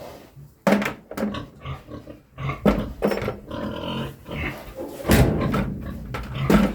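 Pig grunting repeatedly in irregular bursts, with a few knocks mixed in.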